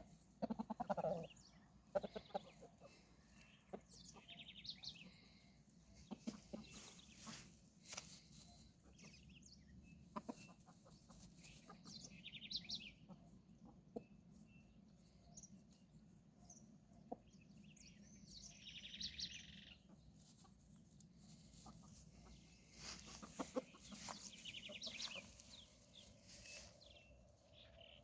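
Faint clucking from a pair of game fowl, a rooster and a hen, while they forage, with a few louder calls near the start. Small birds chirp now and then, and scattered sharp clicks are heard.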